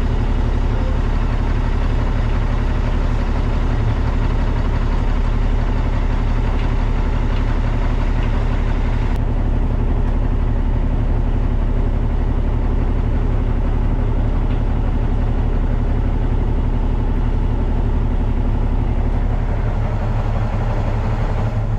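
Semi-truck diesel engine running steadily at low revs while the truck creeps through a tight turn. The brighter noise above the engine drops away suddenly about nine seconds in.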